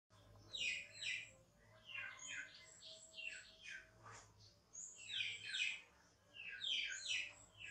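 Small birds chirping: repeated quick runs of short, high, falling chirps.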